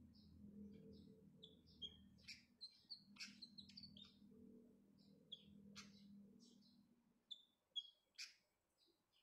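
Pied fantail in a cage giving short, high chirps over and over, with a few sharp clicks among them. A faint low hum underneath fades out about seven seconds in.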